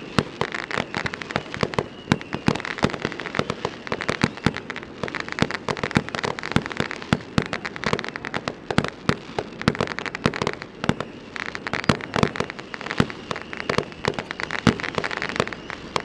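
Fireworks going off: a dense, unbroken run of sharp pops and bangs, several a second.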